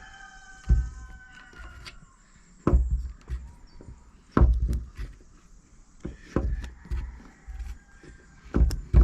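About six dull, heavy thumps at uneven intervals, with faint thin high tones near the start and again later.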